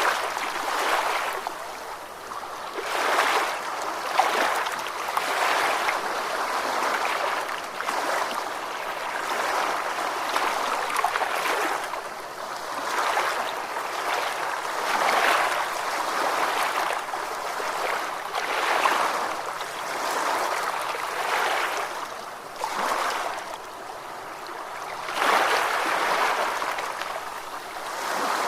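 Ocean waves washing in: a steady rush of water that swells and eases every couple of seconds.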